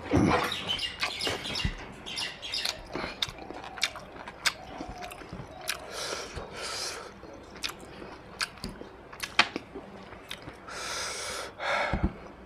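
Close-miked chewing of mutton and rice: a run of wet clicks and lip smacks, with a longer noisy stretch of chewing near the end.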